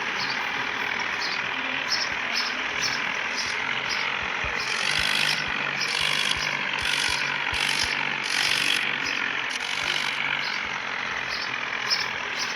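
Tractor engines running, with a steady mechanical rattle and irregular ticking over a low on-off hum.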